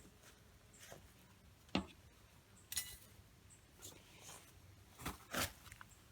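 Faint, scattered scraping, clicking and knocking of a hive tool and knife working comb loose inside a beehive in an irrigation control box, with a few sharper knocks near the middle and end.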